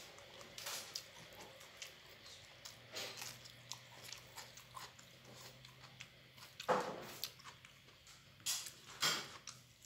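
Close mouth sounds of a man eating fried catfish and rice by hand: chewing with short smacks and clicks, the loudest about two-thirds of the way in and twice near the end.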